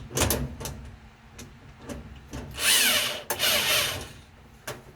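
Handling noise from repair work: a few light clicks and knocks, then two rough scraping or rubbing noises, each about half a second long, in the middle.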